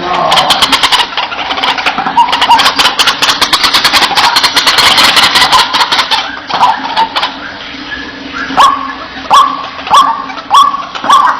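White-breasted waterhen calling: a fast, dense chattering for about the first half, then a regular series of loud rising calls, about one and a half per second.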